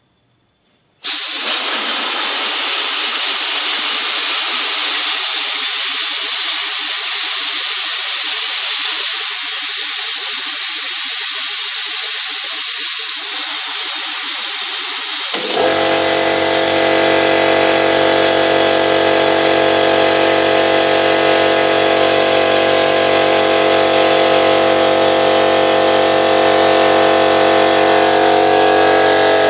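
Compressed air hisses out loudly, starting suddenly about a second in. About fifteen seconds in, the Einhell BT-AC 230/24 air compressor's motor starts and runs on with a steady hum.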